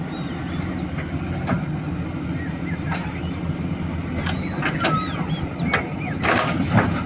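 Diesel engine running steadily at a low, even speed, with scattered short clicks and a few brief chirps over it.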